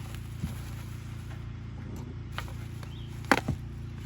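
A few sharp clicks and knocks from handling new tail lights and their packaging, the loudest a little over three seconds in, over a steady low hum.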